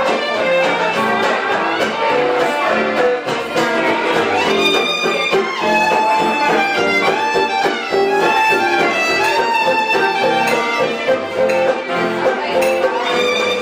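A live band playing, a violin carrying the melody with slides and wavering held notes over guitar accompaniment.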